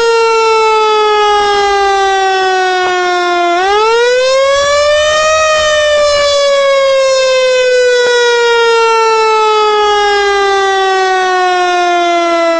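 Siren wailing: its pitch sinks slowly, then about three and a half seconds in sweeps up over a couple of seconds and slides slowly back down, lowest near the end.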